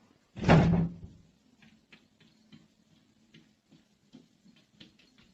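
A single loud thump about half a second in, fading quickly, followed by a scattering of faint light taps.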